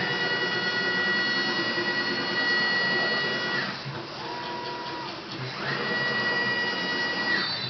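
CNC milling machine's axis motors whining as the machine traverses: a high whine sweeps up in pitch, holds for about three and a half seconds and drops away, then a short lower-pitched move follows, and a second high whine rises about halfway through and falls away near the end.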